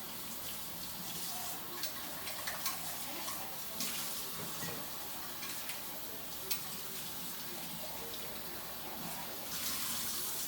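Kitchen tap running into a sink while used utensils and dishes are washed, with scattered light clinks. The flow gets louder near the end.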